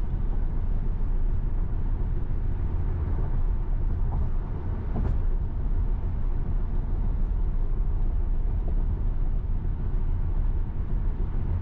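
Steady low road and tyre rumble inside the cabin of an electric Tesla Model Y cruising at highway speed on a rain-wet road.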